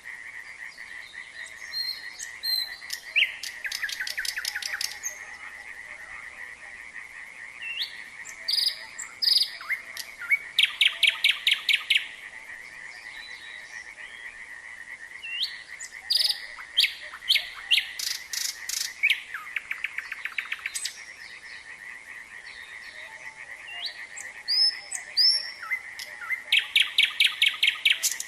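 Nightingale singing in separate phrases of rapid repeated notes, whistles and trills, over a continuous frog chorus that trills steadily at one pitch.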